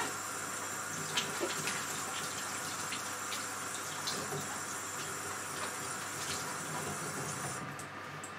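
Kitchen tap running into a stainless steel sink as a piece of pumpkin is rinsed under the stream, with small knocks and splashes; the water shuts off near the end.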